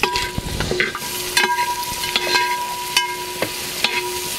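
Sliced onions and green chillies frying in hot oil in a metal pot, stirred with a perforated metal spatula: a steady sizzle with a metallic scrape or knock against the pot about twice a second, over a steady tone.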